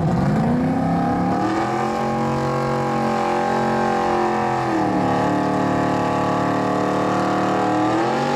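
1998 Camaro SS's forged 347 V8 revving at the starting line before launch: the pitch climbs over the first two seconds and holds at a steady high rpm, dips briefly about halfway, then rises again near the end.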